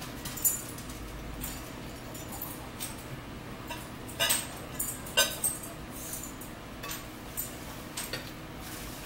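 Close-up eating sounds: chewing and lip-smacking on fried shrimp and French fries, with scattered short clicks and a few sharper smacks or light cutlery clinks about four and five seconds in.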